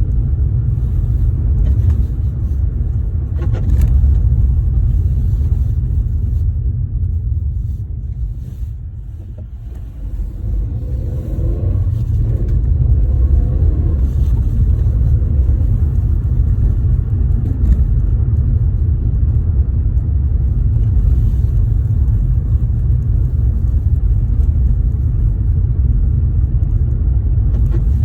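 Car on the move with a steady low road rumble and a few faint knocks from the suspension, the noise the owner is trying to record.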